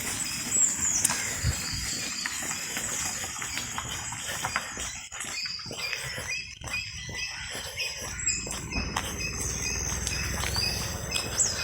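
Rural morning birdsong: scattered short, sliding bird whistles over a steady high-pitched drone.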